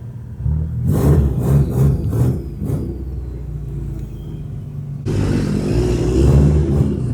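Vehicle engine revving and accelerating, in surges over the first few seconds, then a sudden louder rush of engine and road noise about five seconds in.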